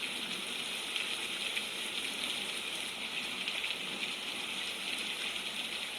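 Steady heavy rainfall, a dense even hiss of raindrops.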